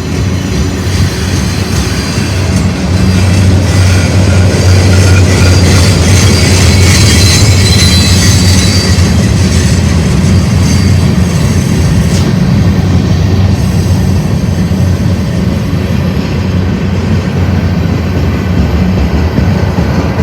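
Freight train rolling past, its steel wheels on the rails giving a loud, steady low drone. High-pitched wheel squeal rises over it from about three seconds in and fades about thirteen seconds in.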